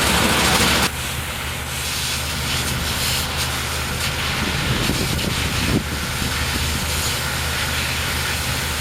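A heavy truck engine idling steadily under the hiss of a high-volume water spray. The loudest spray cuts off suddenly about a second in, leaving a quieter rushing hiss over the engine.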